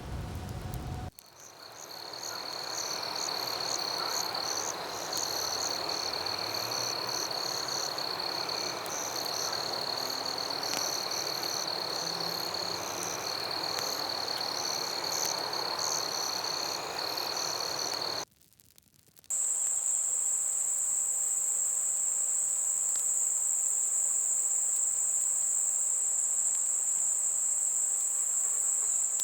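Night insect chorus: steady, high-pitched trilling with pulsing chirps over a soft background hiss. It breaks off for about a second past the midpoint and comes back as one continuous, even higher trill. A lower, noisier ambience cuts out about a second in.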